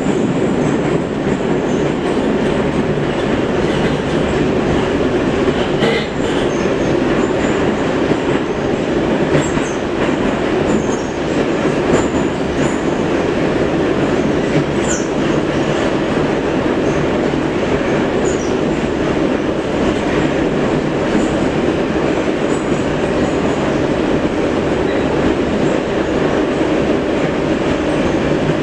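Metro train running through a tunnel: a steady, loud rumble of wheels on rail and running gear, heard from inside the car. A few brief faint high squeaks break through now and then.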